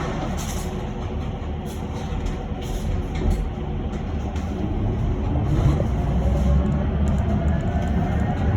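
Cabin noise of an electric bus in motion: a steady low rumble of tyres and road, with a few light rattles.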